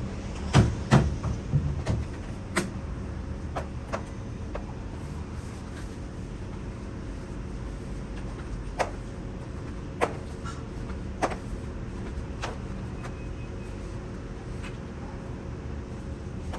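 A steady low mechanical hum, broken by sharp knocks and clacks: several in the first few seconds, then a few single ones spaced out.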